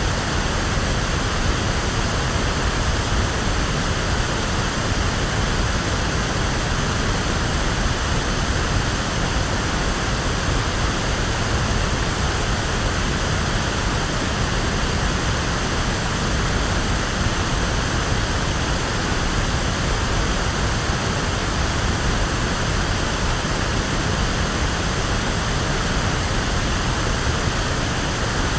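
Steady electronically generated pink noise: an even, unchanging hiss with plenty of low rumble, like a waterfall or sea surf.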